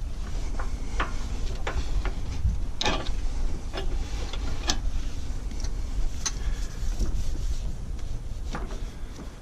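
Scattered light clicks and taps of hands and tools working on hydraulic hose fittings, over a steady low rumble.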